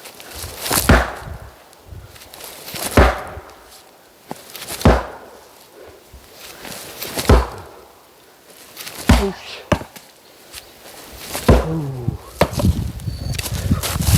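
Oak firewood being split by hand, with a sharp chopping blow about every two seconds, six in all.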